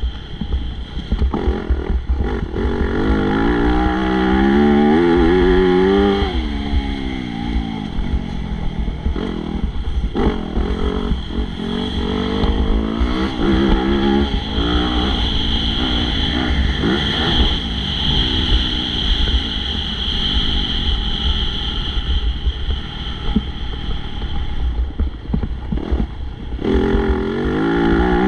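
Motocross bike engine revving hard, its pitch climbing and dropping again and again as the rider accelerates, shifts and rolls off, with a constant low rumble underneath.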